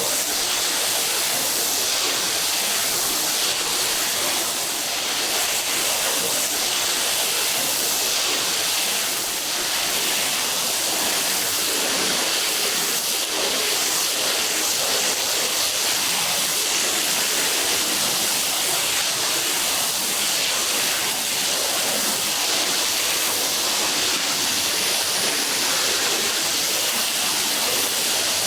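Water spraying in a steady, rushing hiss, as when a carpet is rinsed.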